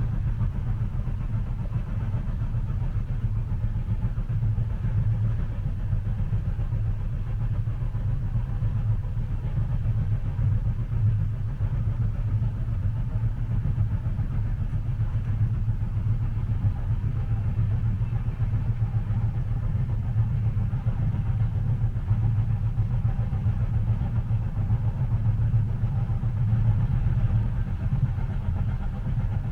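Steady low rumble of a moving train heard from inside a passenger carriage, running evenly without breaks.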